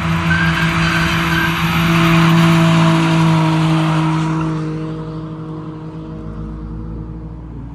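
Car doing a burnout: the engine held at high revs under loud tyre screech, easing off about halfway through as the tyre noise fades and the engine drops back.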